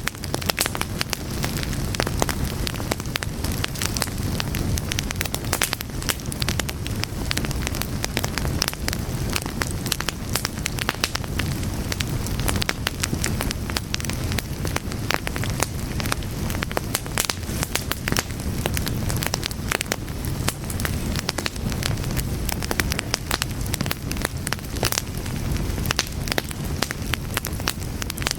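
Fire burning steadily, with dense, irregular crackles and pops over a low, even rumble.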